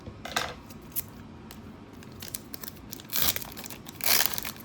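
Foil wrapper of a Pokémon card booster pack being torn open and crinkled, in short rustling bursts, the two loudest near the end.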